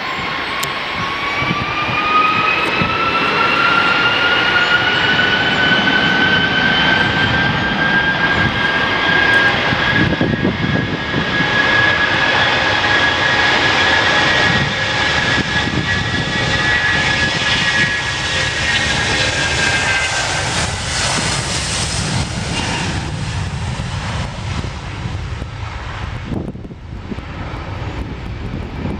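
Boeing 757 jet engines at take-off power: a whine rises in pitch over the first several seconds as the engines spool up, then holds steady over a loud rumble, and the sound fades over the last few seconds as the aircraft moves away.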